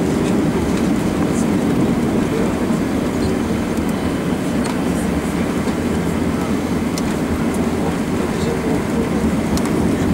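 Cabin noise inside an Airbus A321-131 rolling on the ground: a steady low rumble from the wheels and engines, with faint scattered clicks.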